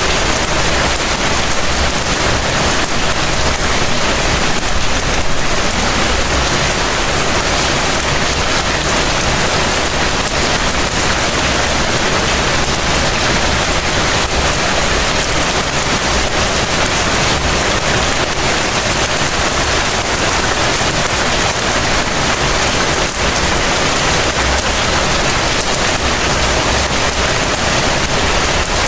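Heavy rain falling steadily, an even hiss of rain on surfaces with a low rumble underneath.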